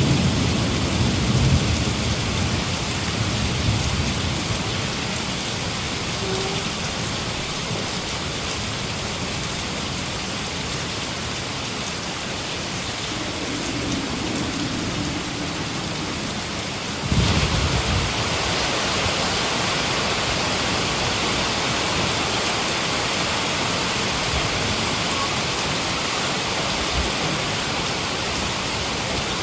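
Heavy rain falling steadily, with a low rumble of thunder fading away over the first few seconds. About seventeen seconds in, the rain abruptly becomes louder and hissier, and it keeps on at that level.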